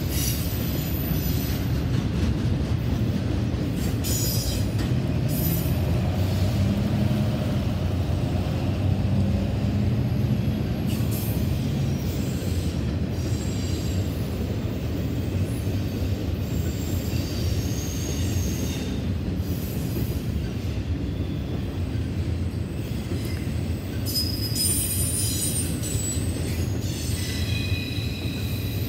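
Norfolk Southern intermodal freight train of double-stacked containers on well cars rolling past: a steady low rumble of wheels on rail, with high-pitched wheel squeals that come and go, strongest near the end.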